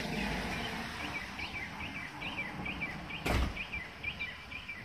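A small bird chirping over and over, short rising-and-falling chirps about two a second, over a low steady background rumble. A single brief thump about three seconds in is the loudest sound.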